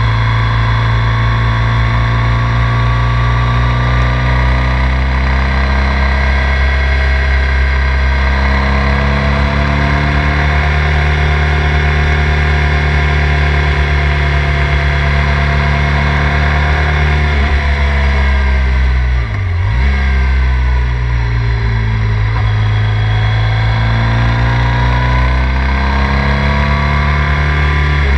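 Triumph Thruxton 900's parallel-twin engine heard from the rider's seat while riding, its note rising and falling with the throttle. About two-thirds of the way through the revs fall away sharply, briefly dipping, then pick back up.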